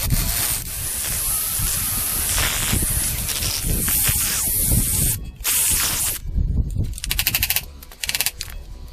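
A loud, hissing jet of spray runs for about five seconds. Several shorter hissing bursts follow, and about seven seconds in there is a brief, fast, evenly pulsed rattle.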